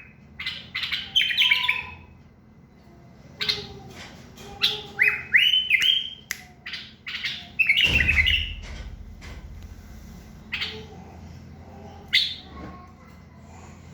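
Bulbul singing in bursts of short, rising whistled phrases and chirps through the first eight seconds or so, then just two single calls. A low rumble comes in about eight seconds in.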